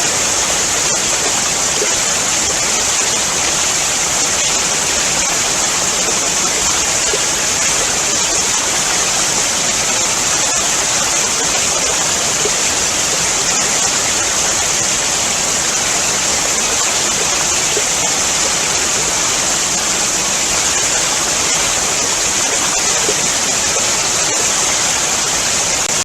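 Large waterfall rushing: a loud, steady, unbroken wash of water noise, strongest in the high treble.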